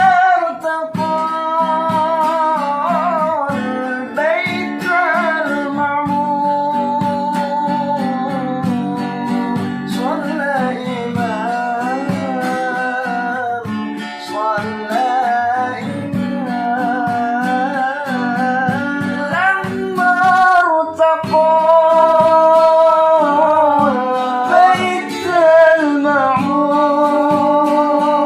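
A solo voice sings long, ornamented melodic lines with vibrato and sliding runs, over a steadily plucked acoustic guitar, in the style of an Islamic sholawat devotional song.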